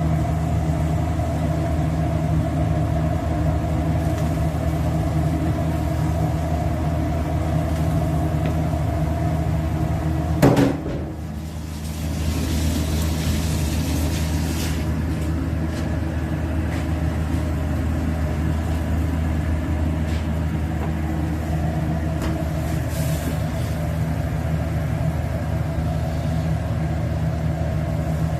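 Steady low mechanical hum, like a motor or fan running continuously. A sharp knock comes about ten seconds in, followed by a brief hiss.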